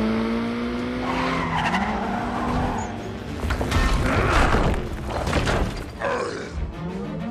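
Car engine revving up with rising pitch, then tyres screeching and skidding, with several sharp clattering impacts, under film score.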